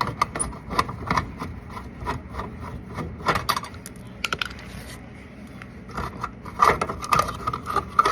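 Irregular clicks and scrapes of a screwdriver and sheet-metal panel being handled as a dishwasher's panel is unscrewed, with a quieter stretch past the middle and busier clatter near the end.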